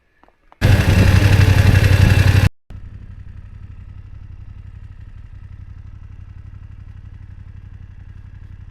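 BMW F750GS parallel-twin motorcycle engine: a very loud burst of engine noise for about two seconds, cut off suddenly, then the engine idling steadily.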